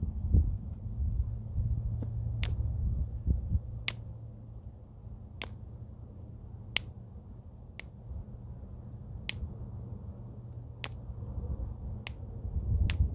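Flintknapping: a homemade bopper striking stone in sharp, ringing clicks, about one every second and a half, knocking flakes off the edge of a piece being worked into a preform.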